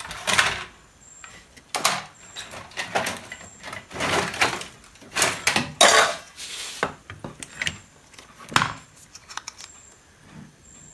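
Irregular clicking and clattering of small hard parts and tools being handled and set down on a repair bench.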